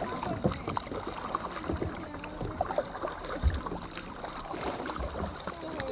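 Water lapping and gurgling around a kayak, with many small drips and splashes and a low bump about halfway through.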